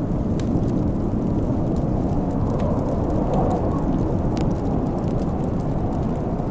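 Steady low rumble of storm wind, with scattered small crackles and pops from a wood fire over it.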